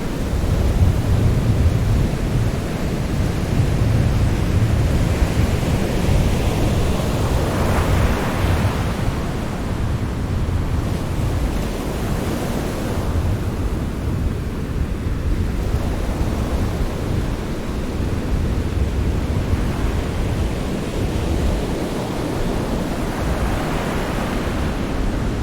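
Ocean surf: a steady low rumble of the sea with waves washing in, one swelling up about eight seconds in and another near the end.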